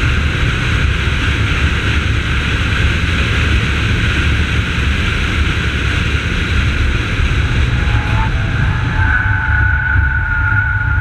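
Holden VY Commodore's 3.8-litre V6 engine running under load on track, heard from inside the cabin, with road and wind noise. About eight seconds in the hiss falls away and a steady whine comes through.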